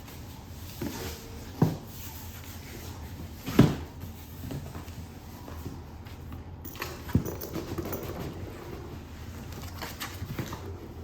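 Cardboard boxes and packing being handled and opened: scraping and rustling of cardboard, with a few thumps, the loudest about three and a half seconds in.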